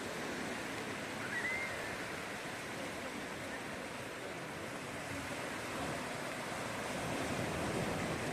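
Sea surf washing onto a beach: a steady rushing noise.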